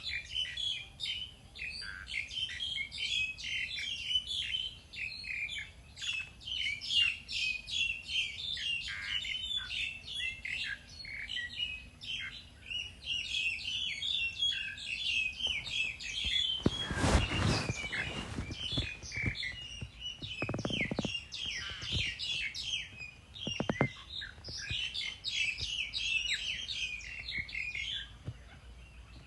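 Many small birds chirping continuously, their short calls overlapping in a dense chatter. A louder rustling noise breaks in about halfway through and lasts a couple of seconds, with two shorter, fainter ones after it.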